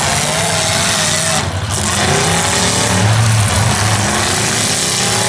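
Demolition derby car engines running loud and revving, the pitch rising and falling as the drivers push the wrecked cars around the arena.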